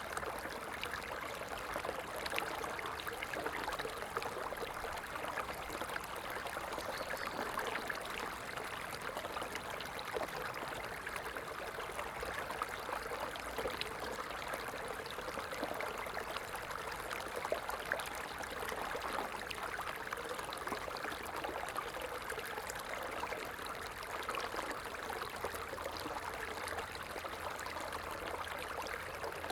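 Stream water flowing and trickling steadily, a continuous babble of small splashes and gurgles.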